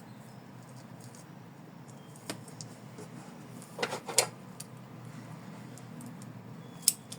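Hands handling ribbon and tape on the embroidery hoop: scattered light clicks and rustles, a short crackly cluster about four seconds in and a sharp tick near the end, over a low steady hum.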